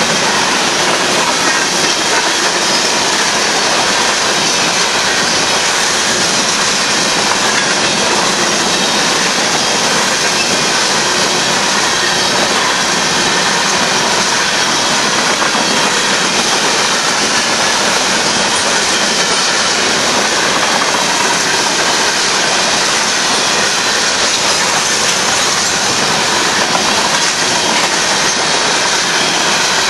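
Covered hopper cars of a Union Pacific grain train rolling past close by: a steady, loud noise of steel wheels running on the rails.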